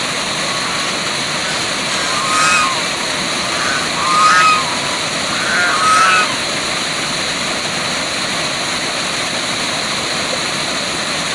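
Waterfall rushing steadily, with three short animal calls over it, about two and a half, four and six seconds in.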